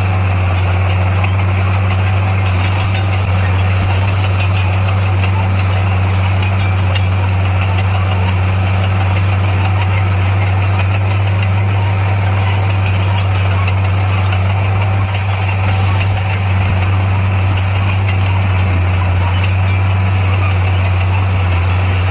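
Heavy diesel engine of earthmoving equipment running steadily, a constant low drone.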